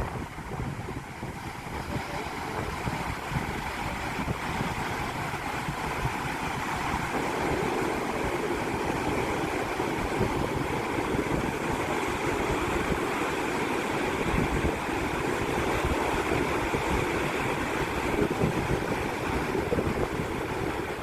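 Mediterranean sea surf washing onto the shore in a steady roar, with wind buffeting the microphone. The wash grows a little fuller a few seconds in.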